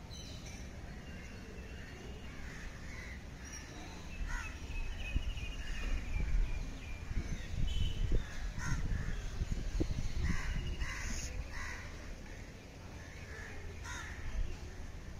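Birds calling now and then over an uneven low rumble that swells in the middle.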